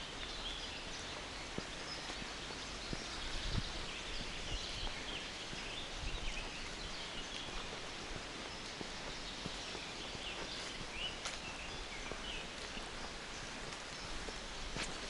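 Small birds chirping and singing, with short calls scattered throughout over a steady outdoor hiss. Faint irregular footsteps and rustles on the forest floor come and go beneath them.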